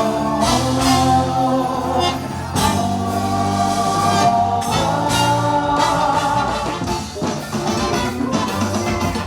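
Band playing music with singing, held notes and chords over drums.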